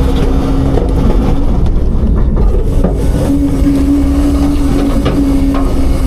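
Autocar-Heil front-load garbage truck running steadily, with a low diesel rumble and a pitched drone that steps up a little about three seconds in. A few light knocks are scattered through it.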